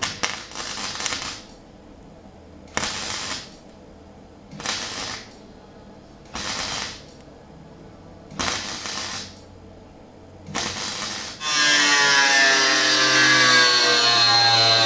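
Angle grinder worked across sheet steel in six short passes, about one every two seconds, then held on for a steady, louder run with a whine near the end.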